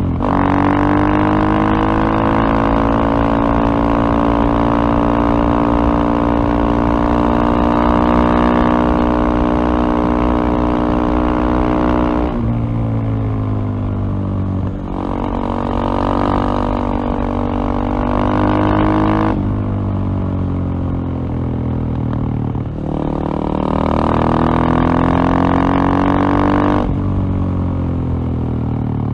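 KTM single-cylinder motorcycle engine running under load, a steady thumping drone. In the second half its note breaks and shifts several times, about every three to four seconds.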